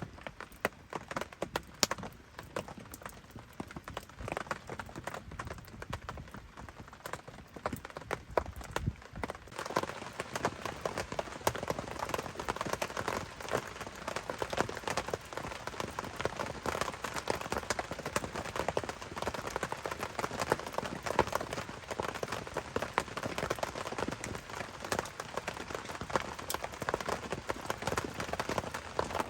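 Raindrops tapping irregularly on the tent fabric, growing denser and louder about ten seconds in.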